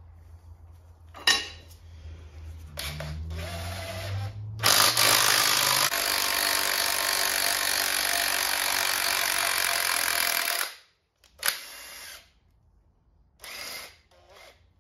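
Power tool run on the engine's front end: a sharp click, then the motor winds up in pitch and runs loudly for about six seconds before cutting off suddenly. Two short blips of the tool follow.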